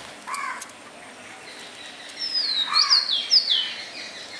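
A songbird calling: a short call about a third of a second in, then a quick run of about four high whistled notes, each sliding down in pitch.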